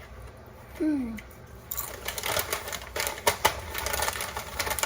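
A short falling 'mmm' of enjoyment about a second in, then crunchy coconut chips being chewed close to the microphone: a rapid run of crackling clicks.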